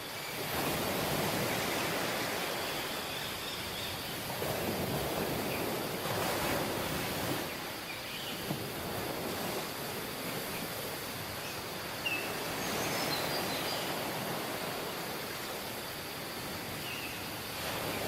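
Ocean surf: waves breaking and washing ashore, the rush of water swelling and easing every few seconds. Faint short bird chirps come through now and then.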